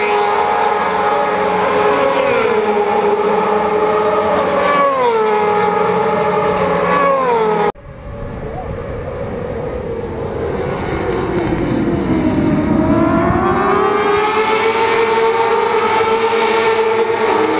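Supersport motorcycle engines revving high on a race track. The pitch steps down several times in the first half. After an abrupt cut, another bike grows louder, its pitch dipping and then rising again.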